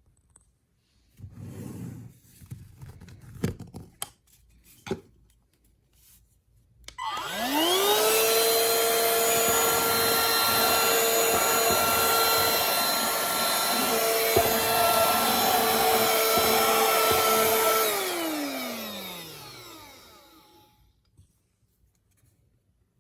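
Bissell AeroSlim cordless handheld vacuum, first handled with a few knocks and rustles, then switched on: its motor spins up to a steady high whine with airflow hiss. About eleven seconds later it is switched off and the whine falls away as the motor winds down.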